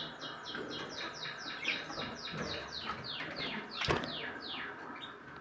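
Caged pet birds chirping: a fast run of short falling chirps, about four or five a second, that fades out near the end, with a single sharp click about four seconds in.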